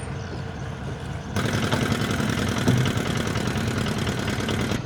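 Tugboat engine running steadily; about a second in it suddenly turns louder and harsher, with a clattering edge, then drops back abruptly near the end.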